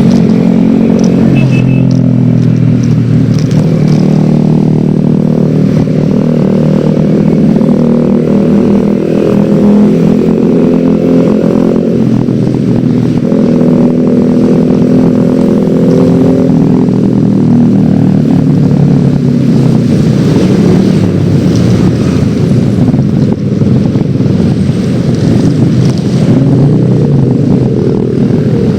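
Yamaha X-Ride 113cc single-cylinder automatic scooter running on the road, heard from the rider's position; the engine note rises and falls a few times as the speed changes.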